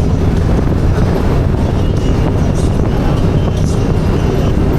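Motorcycle engine running steadily at cruising speed, with heavy wind rush over the microphone.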